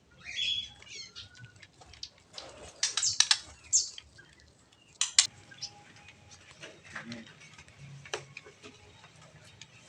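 Several small aviary birds chirping and giving quick high calls in short bursts, mixed with scattered sharp clicks and ticks.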